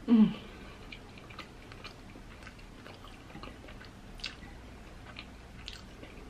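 Close-miked chewing of a mouthful of rice and peas, with soft mouth clicks every half second to a second. A short hum of the voice, falling in pitch, opens it and is the loudest sound.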